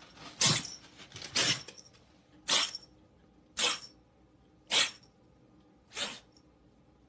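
A pet, cat or dog, sneezing over and over: about seven short, sharp sneezes, roughly one a second.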